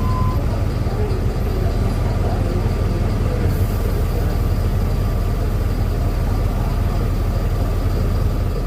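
Diesel engine of a Mercedes-Benz OF-1721L BlueTec 6 bus chassis running steadily, a dense low rumble that holds an even pitch and level, with no revving.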